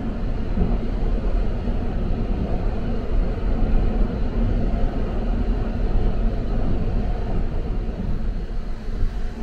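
Sunrise Express 285-series electric sleeper train running along the line, a steady low rumble heard from inside the compartment.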